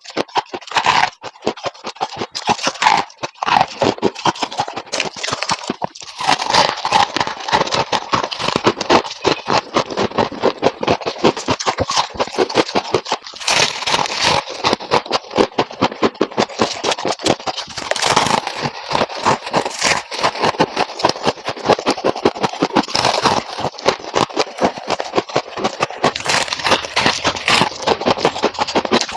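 Close-up scraping and crunching of refrigerator frost ice, a fast, dense run of crisp crackling crunches that keeps on throughout.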